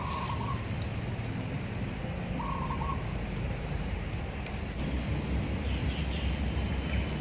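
A bird calling twice, each a short, level-pitched note about two and a half seconds apart, over a steady low rumble of river and wind.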